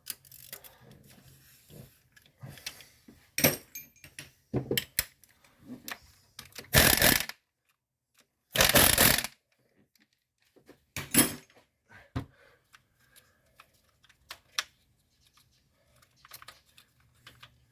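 Hand tools and loose metal engine parts clicking and clattering as a pushrod engine's lifter guide is worked out, with scattered taps and two louder noisy bursts, each under a second, about seven and nine seconds in.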